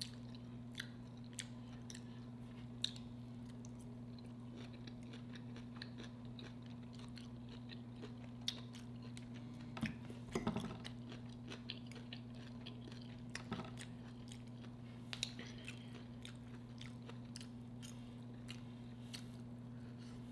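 Close-miked chewing of a mouthful of fish and sautéed cabbage, with soft, scattered mouth clicks and a few light clicks of a fork on the plate, over a steady low hum.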